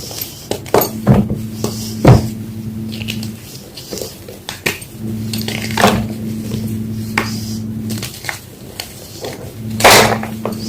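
Homemade gym chalk blocks being crushed: a string of sharp, irregular crunches and cracks, the loudest about two seconds in and near the end. A low hum comes and goes underneath.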